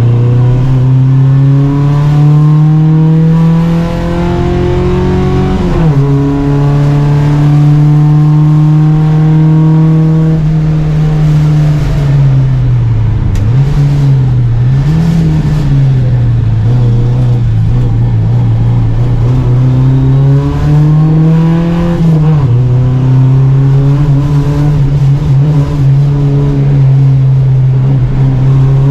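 Volvo Amazon 121 race car's four-cylinder engine at full racing effort, the revs climbing and then dropping sharply at an upshift about six seconds in and again near the twenty-two second mark. In the middle the revs dip and rise quickly twice, as when lifting off and changing down for a corner.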